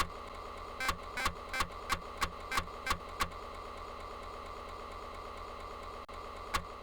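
Quiet electronic hum from the Amiga intro's soundtrack, with a run of sharp clicks about three a second in the first few seconds, then the steady hum alone and one last click near the end.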